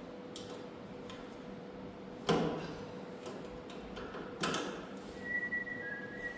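A few sharp clicks and two louder knocks, each with a brief ring, over a faint steady hum. Near the end come some faint high whistle-like tones.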